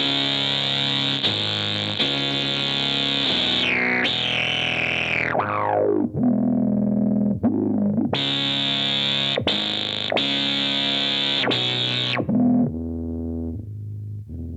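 Boss SY-1 synthesizer pedal on a bass patch, played from a guitar: a run of held, buzzy synth-bass notes, changing every second or two. About four seconds in, one note's tone sweeps down from bright to dull.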